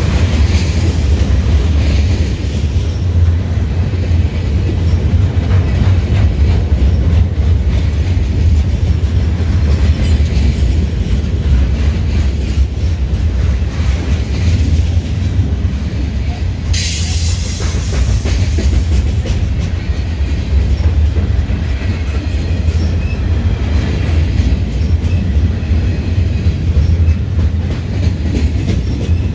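Freight train of loaded gondola cars rolling past close by: a steady heavy rumble with the clatter of steel wheels over the rails. For about two seconds, roughly halfway through, a sharp high hiss rises over the rumble.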